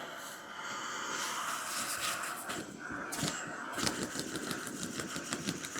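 Fire Maple canister gas stove burning with a steady hiss under a pot while being fanned hard with a foam pad, giving uneven gusts of air and a few low flaps. The flame holds against the wind.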